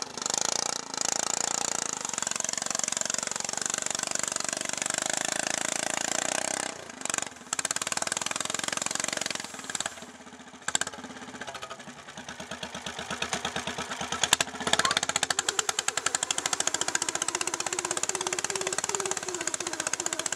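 Riding lawn tractor's small engine running hard for several seconds, then dropping away about seven seconds in. It picks up again with a few sharp bursts around fourteen seconds and settles into a steady, evenly pulsing run.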